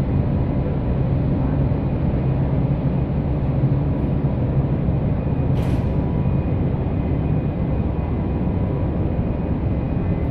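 Steady low rumble of a ferry's engines under way, with a short sharp click about five and a half seconds in.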